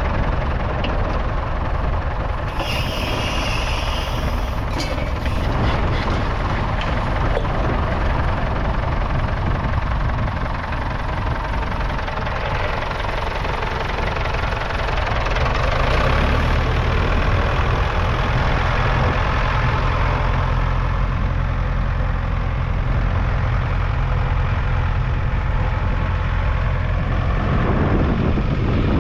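Ford 6600 tractor's 4.2-litre four-cylinder diesel engine running steadily, a little louder from about halfway. A brief hiss comes a few seconds in.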